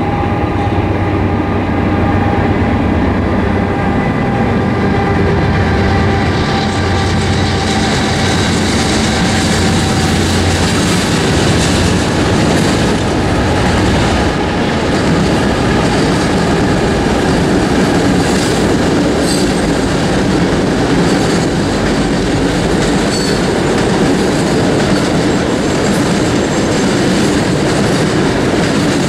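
Norfolk Southern coal train passing close by: its diesel locomotives run by for the first ten seconds or so, with a steady low engine drone. After that the coal cars roll past with rhythmic wheel clatter and occasional faint wheel squeal.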